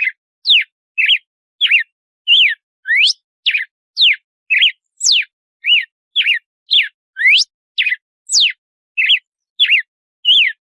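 Red-cowled cardinal (galo-de-campina) singing its 'açoite' song: a steady run of short, clear whistled notes, about two a second, alternating quick upward and downward sweeps.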